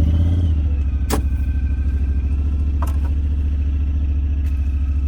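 Side-by-side UTV engine idling steadily just after starting, with a fast even low pulse and two light clicks about one and three seconds in.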